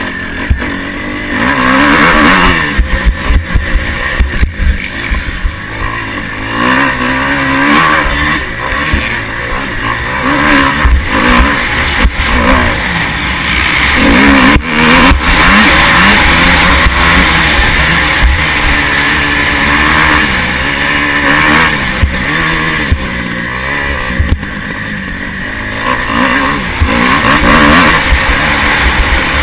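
Motocross bike engine revving hard and dropping back over and over as it accelerates and shifts, picked up by a camera mounted on the bike, with rushing noise and scattered knocks.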